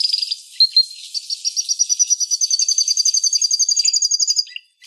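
Domestic canary singing: a short warble, then a long, fast trill of high repeated notes, about ten a second, that stops shortly before the end.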